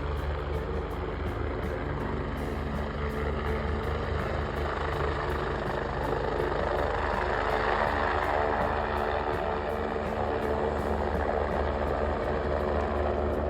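A vehicle running steadily: an even, low engine drone with road noise.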